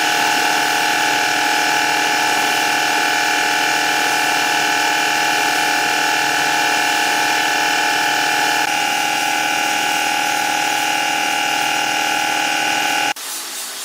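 Electric power tool motor running steadily at full speed with a high-pitched whine, shifting slightly a little past halfway and cutting off suddenly near the end.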